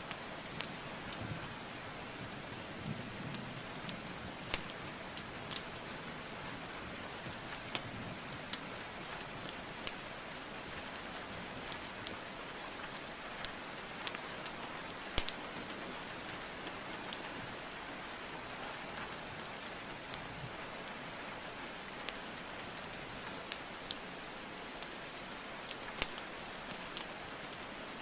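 Steady rain hiss with a wood fire crackling over it: scattered sharp pops and snaps at irregular intervals, about one or two a second.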